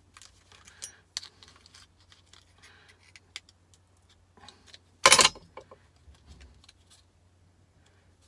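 Light clicks and rustles of hands pulling apart a cut-open scrap capacitor's metal casing and foil, with one loud, sharp noise lasting a fraction of a second about five seconds in. A faint steady low hum runs underneath.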